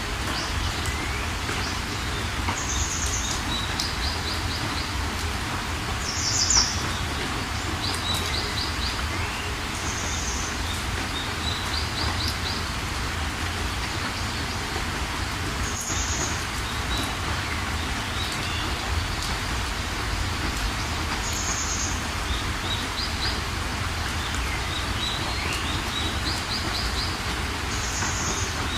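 Steady rain with birds calling over it: short high chirps every few seconds and quick trills of rapidly repeated notes. The loudest chirp comes about six and a half seconds in.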